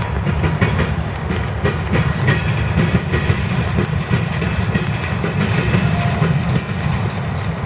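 Freight cars of a grain train rolling past: a steady low rumble with wheels clattering over the rail joints, and a faint high wheel squeal now and then.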